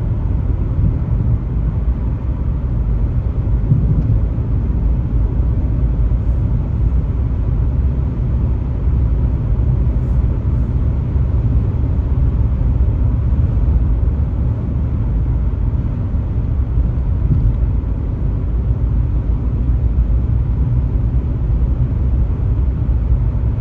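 A car travelling at highway speed: a steady low rumble of road, tyre and engine noise with no change in pace.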